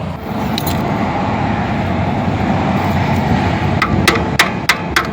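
A vehicle going by on the road, a steady rushing noise. Near the end come several sharp clicks, typical of metal tools at work on a motorcycle footpeg mount.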